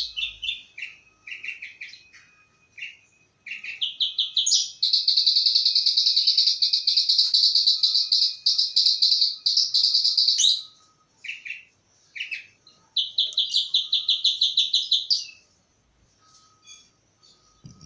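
Javan bush lark (branjangan) singing. Short phrases of rapid notes lead into a long, fast trill of about six seconds. After a pause with a few single notes comes a second trill of about two seconds.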